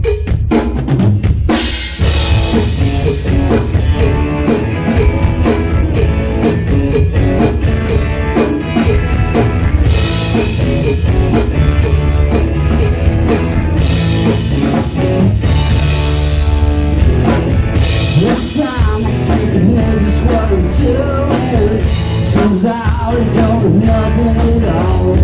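Live rock band playing a song's instrumental intro. The drum kit plays alone at first, and the full band comes in about a second and a half in, then plays on steadily.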